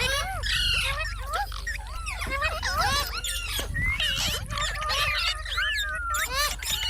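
Pet parrot chattering in a rapid, continuous run of short rising and falling chirps and whistles.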